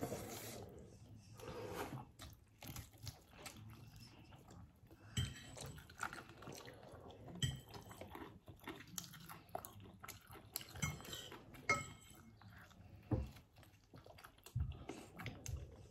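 Chewing and biting from people eating meat off the bone, close to the microphone, with irregular small crunches and smacks and a few short clinks of dishes.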